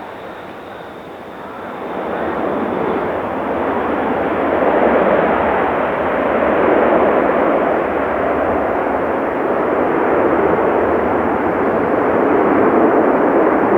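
Jet engines of a Boeing 737-900 (CFM56-7B turbofans) with a broad roar that swells over the first few seconds and then holds loud and steady. A faint high whine fades out early on.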